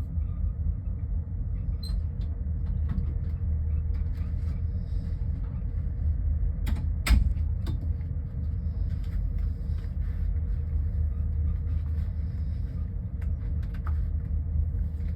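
Steady low rumble of the ferry Stena Estelle under way at sea, with scattered light clicks and two sharp knocks close together about seven seconds in.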